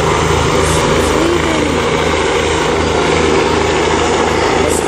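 Helicopter running, with a steady, rapid chop from its rotor blades over a constant rushing engine and rotor noise.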